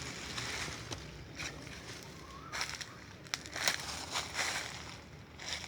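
Footsteps and rustling through dry leaves and undergrowth: irregular crunching steps with a sharp click about three seconds in.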